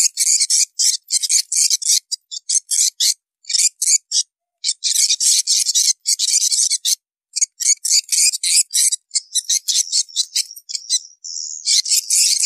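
A flock of swiftlets twittering: dense trains of fast, high-pitched chirps broken by short silent gaps. This is the swiftlet call sound played at a bird house to lure swiftlets in for nesting.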